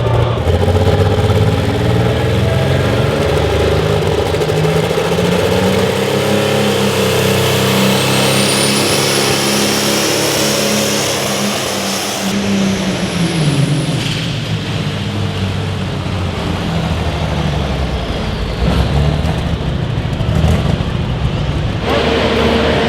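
A pulling truck or tractor's engine running hard under load as it drags a pulling sled, with a thin high whine that rises about a third of the way in and holds for a few seconds. The sound changes suddenly a few times, with a steadier engine tone near the end.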